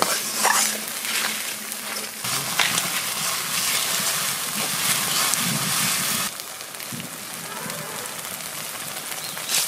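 Onion-and-spice masala sizzling and crackling in a kadai over a wood fire in a clay chulha, a steady hiss with small pops; it turns quieter about six seconds in.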